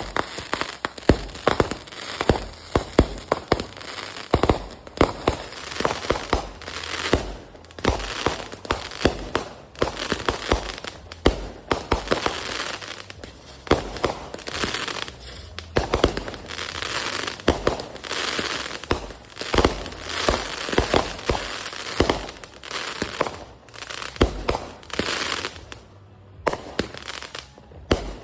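Fireworks going off: a dense, irregular run of sharp bangs and crackling, with stretches of hiss between the louder reports.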